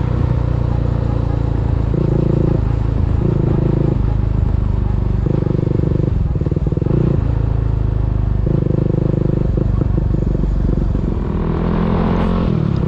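CFMoto NK 250's single-cylinder engine running through an Orion full-system aftermarket exhaust while riding, holding a steady pitch; the note rises as the bike accelerates near the end.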